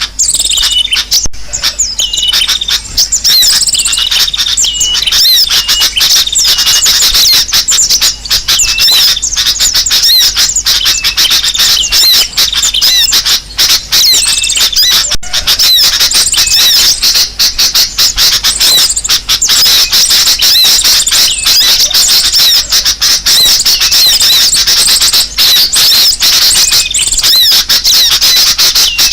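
Many small birds calling at once: a dense, loud chorus of short high chirps and chatter, overlapping without a break. It is a bird-lure recording of noisy birds, played to draw wild birds in.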